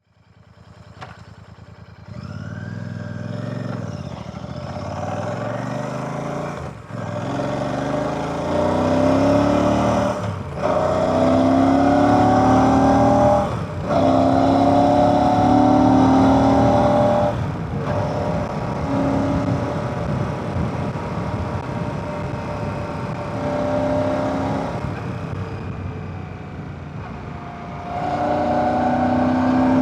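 Royal Enfield Classic 650's 648 cc air/oil-cooled parallel-twin engine and exhaust pulling away and accelerating, its pitch climbing and breaking off briefly at about four upshifts. It then runs at a steadier, varying speed and picks up again near the end.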